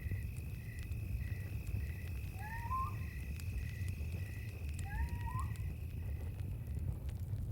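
Night ambience: a steady high insect drone with a short chirp repeating about every half second, over a low rumble with scattered small crackles from a campfire. Twice, an animal call rises in pitch.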